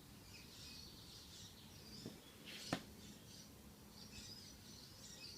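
Near silence: faint, scattered bird chirps in the background, with one light click about two and a half seconds in.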